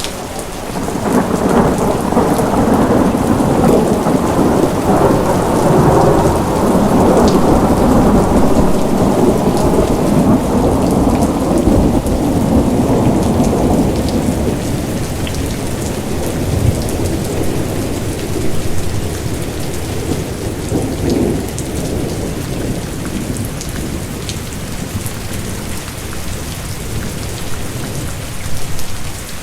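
Steady rain falling, with a long, low roll of thunder that builds a second or so in and dies away about halfway through.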